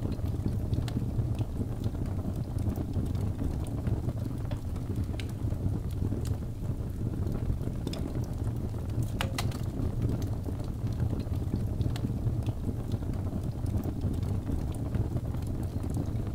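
Birch-log fire in a fireplace, burning with a steady low rumble of flames and scattered small crackles and pops, with one sharper pop about nine seconds in.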